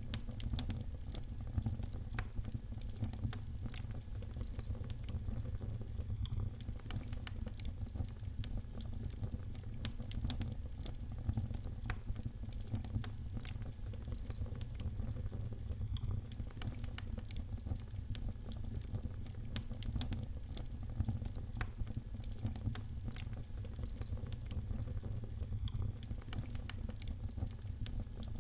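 Wood fire crackling in a fireplace: frequent small, irregular pops and snaps over a steady low rumble.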